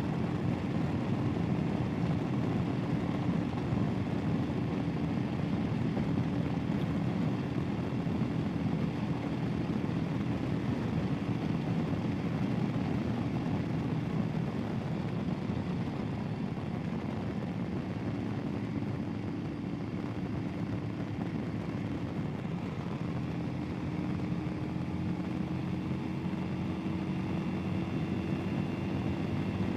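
Royal Enfield Himalayan's single-cylinder engine running steadily under way. It eases off slightly a little past halfway, then its pitch climbs slowly as the bike picks up speed toward the end.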